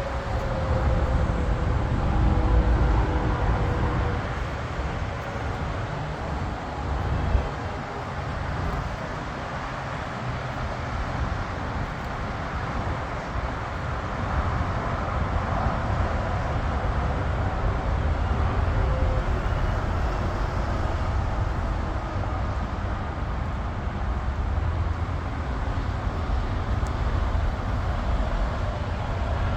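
Steady outdoor background noise with a low rumble, without any distinct single event.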